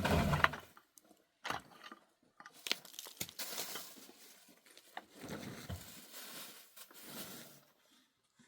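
Irregular crunching and rustling handling sounds, with a few sharp knocks in the first three seconds and longer rustling stretches after.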